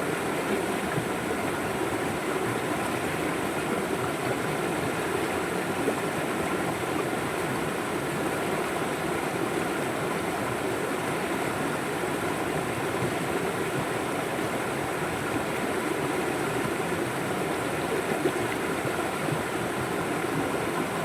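A river flowing: steady, even water noise that holds without change.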